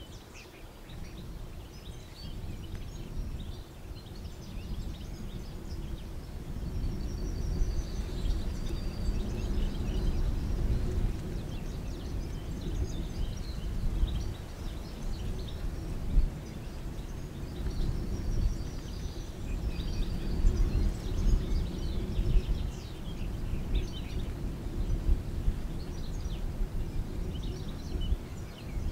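Several songbirds singing, with short chirps and trills coming and going over a loud, unsteady low rumble.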